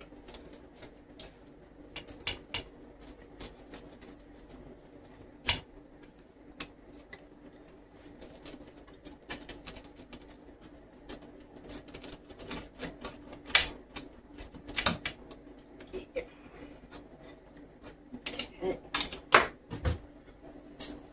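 Irregular light clicks and taps of kitchen utensils and dishes being handled, getting busier near the end, over a faint steady hum.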